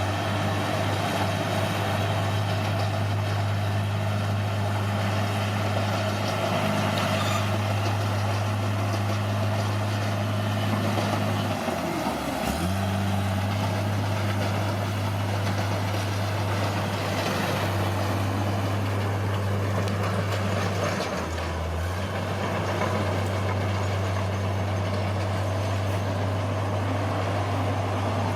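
Bulldozer's diesel engine running steadily under work, its note dipping briefly twice, near the middle and about three quarters of the way through, as the load comes on.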